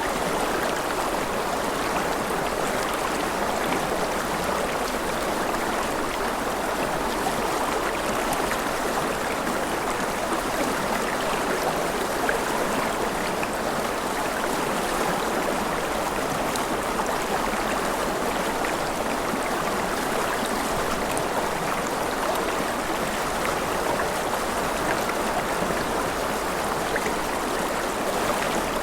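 Steady rain falling: an even, unbroken hiss of drops that does not rise or fall.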